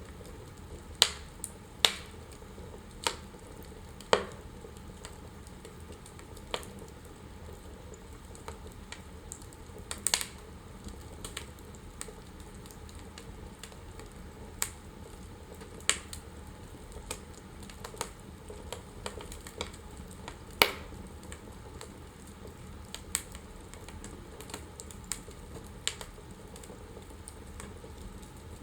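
Wood fire crackling in a fireplace: irregular sharp pops and snaps over a steady low hiss of the flames, the loudest pops about a second in, near two seconds, around four seconds and about two-thirds of the way through.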